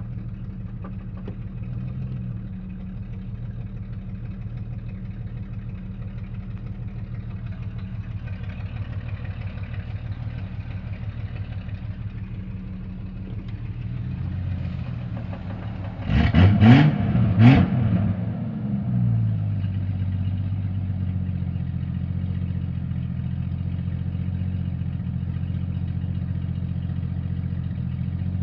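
Jeep Cherokee XJ 4.0 High Output straight-six engine idling steadily, revved twice in quick succession about halfway through, then back to idle. It carries the noise under diagnosis, which the owner traced to the torque converter.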